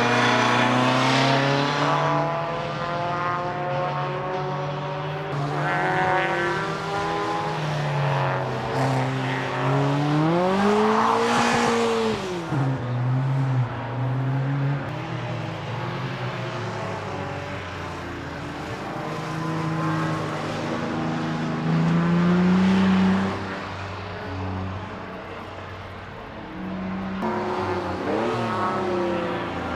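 Retro race and drift car engines revving on and off the throttle on track, their pitch climbing and dropping again and again as the cars go by. The loudest moment is a sharp rev climbing and then falling away about ten to twelve seconds in.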